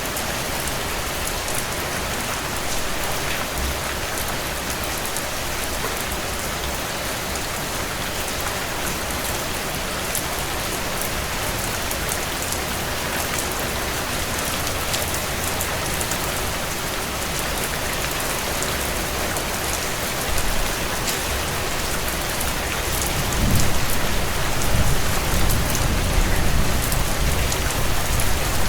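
Steady heavy rain on window panes, with fine crackling from a wood fire in a stone fireplace. A low rumble swells in the last few seconds.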